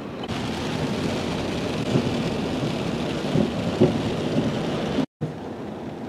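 Steady heavy rain with a low rumble beneath it. The sound drops out for a moment about five seconds in.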